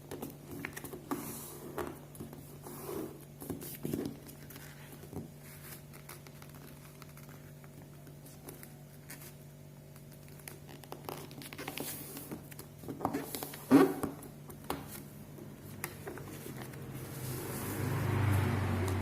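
A sheet of paper being folded and creased by hand: irregular rustles and crinkles, with the loudest crackle about fourteen seconds in. A steady low hum runs underneath.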